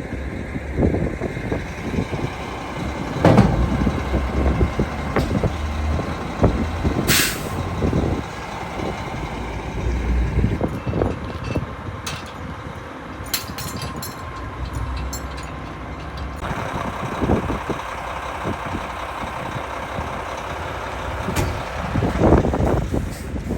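Heavy-duty tow truck hauling a fire department ladder truck, engine and chassis running with rattles and knocks. A short air-brake hiss comes about seven seconds in.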